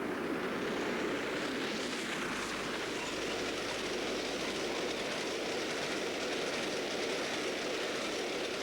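Steam locomotive hauling its train, a steady rushing rail noise with no distinct exhaust beats.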